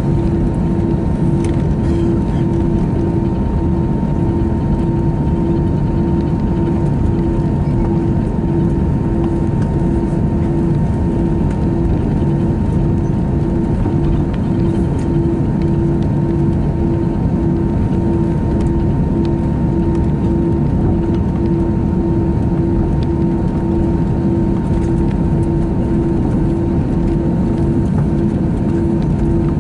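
Inside the cabin of an Airbus A321 with its engines running before takeoff: a steady low rumble, with a hum that pulses evenly about one and a half times a second and a fainter steady whine above it.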